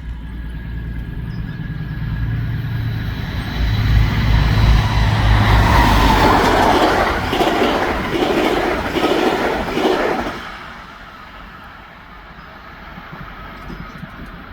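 Diesel train passing close by: its engine rumble builds as it approaches, then the wheels clatter rhythmically over the rail joints for several seconds before the noise drops away sharply as it moves off.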